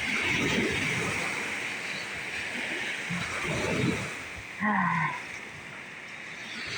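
Lake Superior surf breaking and rushing up the beach in strong wind, a steady rush of noise that swells and ebbs with the waves. There is a brief short voice sound with a falling pitch about two-thirds of the way through.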